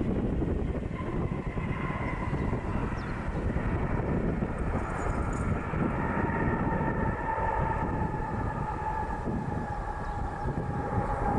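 Boeing 767-300ER jet engines on approach: a steady rumble with several whining tones that slowly fall in pitch, with wind buffeting the microphone.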